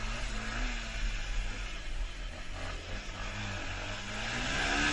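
A vehicle engine running under a steady rumble of road and wind noise, its pitch rising near the end as it revs up.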